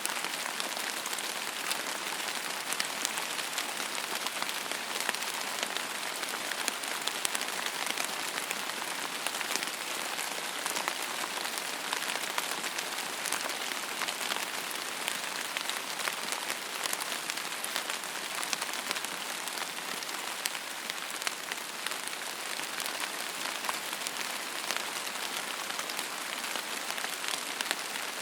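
Steady rain falling on a surface, an even hiss dotted with many small drop ticks, with no thunder.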